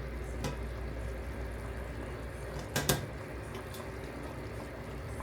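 Pot of beef stew bubbling at a steady boil, with two quick clinks of metal on the pot near three seconds in and a lighter click about half a second in.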